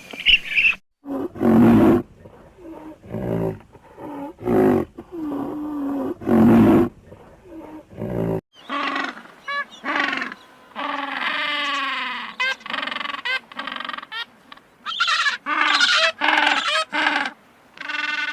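Lion roaring: a run of about half a dozen loud, deep roars and grunts. About eight seconds in the sound changes abruptly to a different animal's repeated, higher pitched calls.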